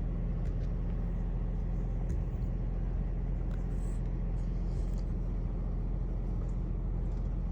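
An engine idling steadily with an even low rumble, with a few faint light ticks over it.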